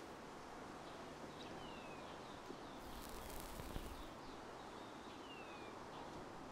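Faint outdoor ambience with a bird calling: two thin descending whistles a few seconds apart among small chirps. A brief soft hiss comes about midway.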